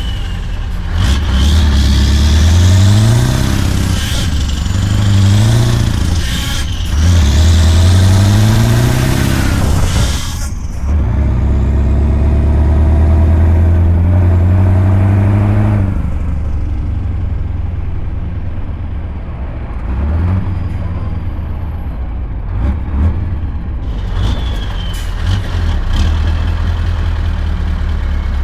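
Scania V8 truck engine accelerating, its note rising and dropping back through several gear changes in the first ten seconds. It then holds a steady pull for several seconds before settling to a lower, even note.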